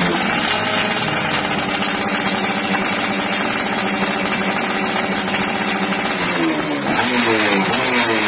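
Yamaha F1ZR two-stroke engine running through an aftermarket racing exhaust: revs settle at the start, it idles steadily, then it is revved up and down again near the end.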